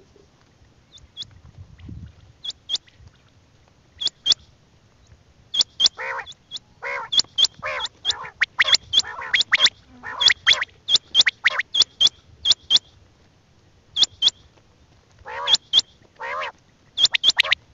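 Quail calling over and over: short, sharp high notes, often in quick pairs, mixed with harsher, lower calls. The calls are sparse for the first few seconds, then come thick and fast.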